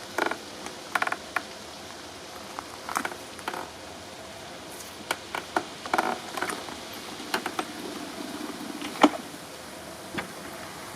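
Scattered short clicks and knocks, a dozen or so, irregularly spaced, over a steady hiss, with no engine running.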